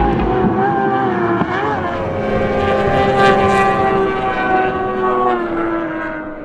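Mercury Racing V8 outboard on a race boat running at high revs with a steady engine note, fading out near the end.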